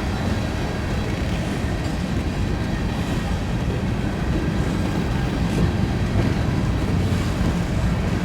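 Freight train's cars rolling past with a steady low rumble of steel wheels on rail.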